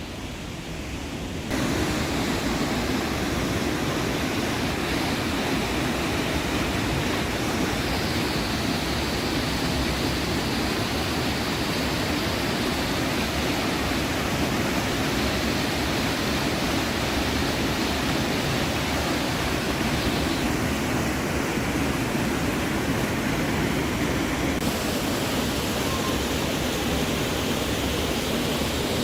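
Steady rush of falling water from a waterfall. It gets suddenly louder about a second and a half in and changes slightly in tone a few times.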